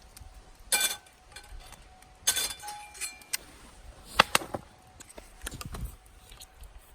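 A few clinks and light knocks of hard objects, some of them ringing briefly, at irregular intervals.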